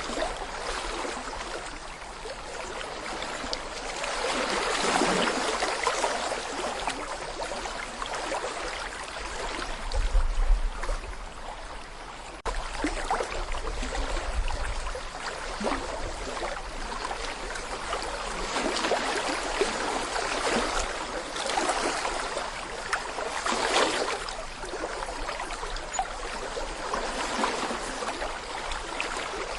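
Small brook babbling over stones: a steady rush of flowing water with gurgles that swell and fade every few seconds. A low rumble comes in from about ten to fifteen seconds in.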